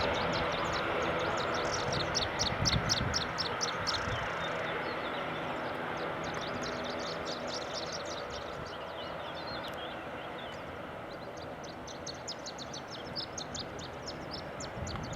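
Aircraft engine noise slowly fading as a plane moves away, with small birds chirping in quick, high runs over it.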